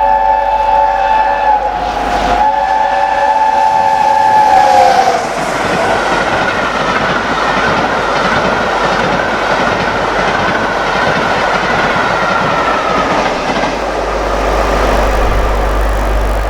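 A steam locomotive's chime whistle, the LNER A1 Pacific 60163 Tornado, sounded long and loud. It has a short break about two seconds in and drops in pitch as the engine passes about five seconds in. The rush and clatter of the train running through at speed follows.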